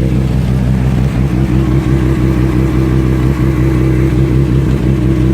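Inline-four 600 cc sport bike engine running at a steady speed.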